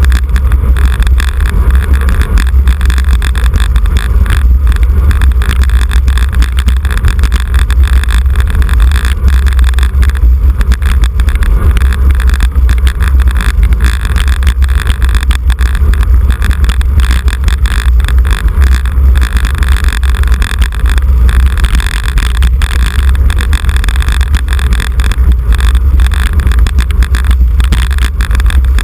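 Wind rumbling on the microphone of a camera carried on a moving road bicycle: a loud, steady, deep rumble that does not let up.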